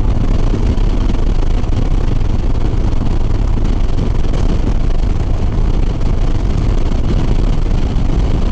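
Motorcycle riding at highway speed: steady wind rush over the rider's microphone mixed with the low drone of a Harley-Davidson Sport Glide's V-twin engine and road noise, with no change in speed.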